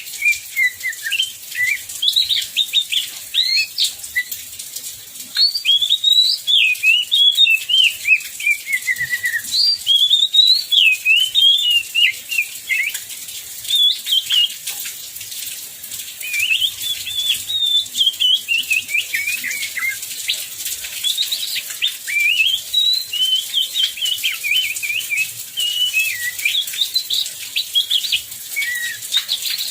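Oriental magpie-robin singing continuously: a varied, fast warbling song of sweeping whistled notes, phrase after phrase with only short breaks.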